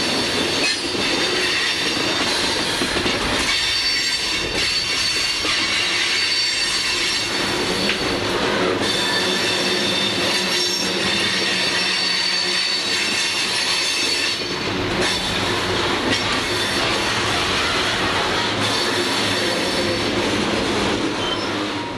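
CSX coal train's open-top cars rolling past on a curve, the wheels running with a steady rumble and clatter. Wheel flanges squeal in several sustained high tones throughout.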